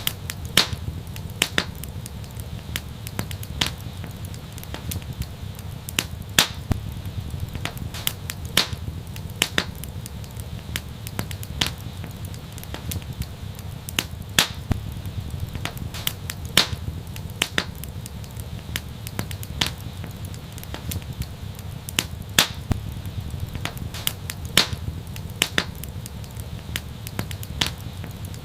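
Wood fire crackling, with sharp irregular pops and snaps over a steady low rumble of the flames.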